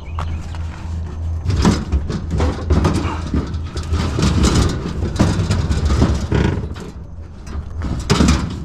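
Irregular clattering and knocking of scrap items being handled and shifted, over a steady low engine hum from an idling vehicle.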